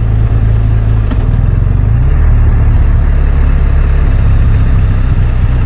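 BMW R 1250 RT boxer-twin motorcycle engine running under way, loud and steady, with wind and road noise over it. The engine note shifts about two seconds in.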